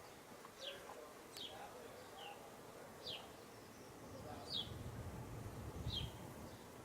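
A small songbird chirping: short, high notes that slide downward, repeated about once a second.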